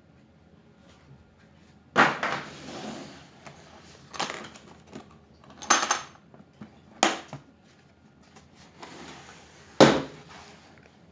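Hard parts of a cordless drill kit being handled and set down: five sharp clacks and knocks with rattling and rustling between them.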